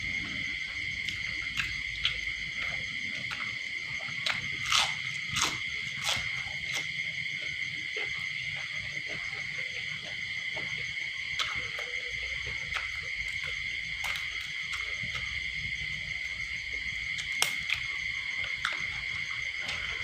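A steady, high-pitched night chorus of crickets trilling without a break. Scattered sharp clicks and taps stand out over it, several close together about five seconds in and one near the end.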